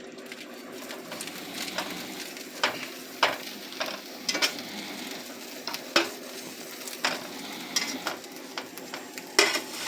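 A quesadilla sizzling as it fries in a pan, with a scattering of short sharp spatula scrapes and taps against the pan as it is turned over.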